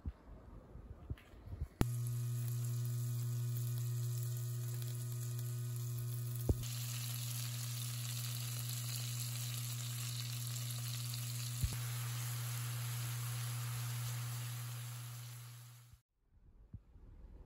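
Beef steak and garlic cloves sizzling in a frying pan over a steady low hum; the sizzle grows brighter about six seconds in and fades out near the end.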